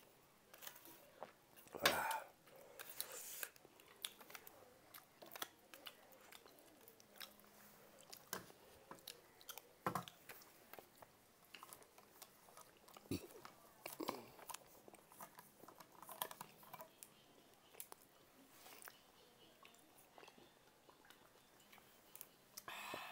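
Close-up eating sounds: chewing and biting of fried food, with some crunching and many small scattered clicks. The loudest bite comes about two seconds in.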